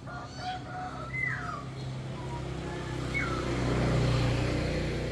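A few birds call, with short held notes and falling whistles. Under them a low engine hum grows louder through the second half.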